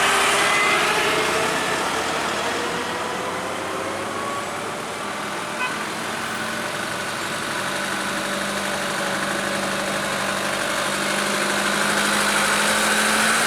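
Truck engines running on the road, their pitch shifting as they pull. The sound eases a little in the middle and builds again near the end, with one short click about five and a half seconds in.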